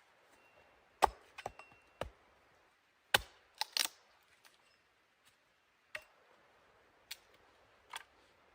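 A hand tool striking wood in a series of sharp knocks and chops at irregular gaps, about one a second. The loudest strikes come about a second in and just after three seconds in, and a quick double strike follows near four seconds.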